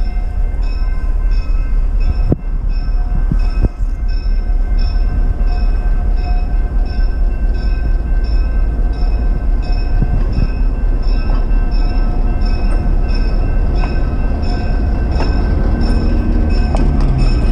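Beach Train passenger train rolling past with a heavy low rumble, a bell ringing over and over, and a few sharp metallic clanks from the cars.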